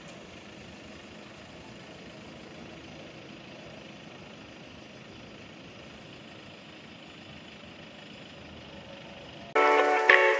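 Steady outdoor street noise with road traffic. Loud music starts suddenly near the end.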